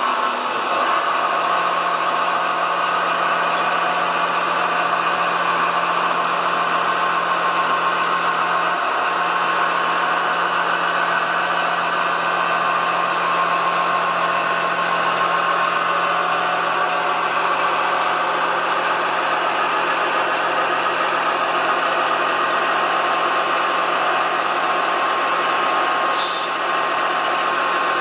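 Radio-controlled construction model running, a steady mechanical whine with a low hum that holds unchanged, and a brief high hiss near the end.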